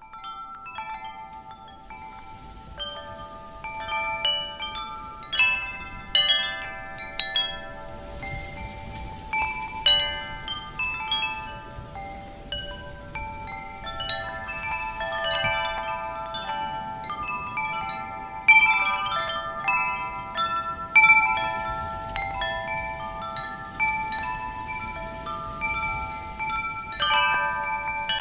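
Wind chimes ringing: many clear metallic notes struck at irregular moments, overlapping and fading slowly.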